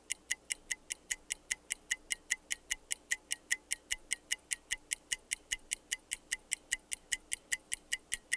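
Microwave oven timer ticking steadily, about five ticks a second, as it counts down.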